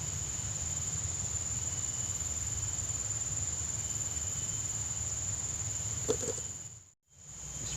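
A steady high-pitched insect drone, like crickets chirring, over a low rumble, with a small click about six seconds in; the sound drops out briefly near the end.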